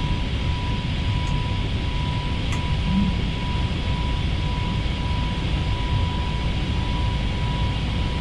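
Steady flight-deck noise of an Airbus A320neo climbing after takeoff: a low rush of airflow and engines, with a thin steady tone running through it.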